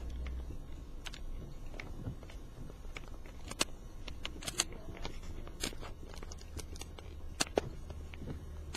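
Steady low hum of a truck idling, heard from inside the cab, with scattered sharp clicks and rattles of gear being handled.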